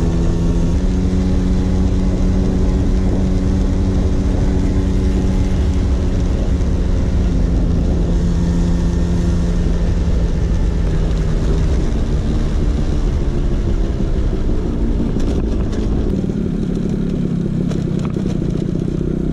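Vespa PX 150 single-cylinder two-stroke engine running through an aftermarket DRC Victory racing exhaust, at a fairly steady pitch that shifts a few times. A heavy low rumble under it eases off about three-quarters of the way through.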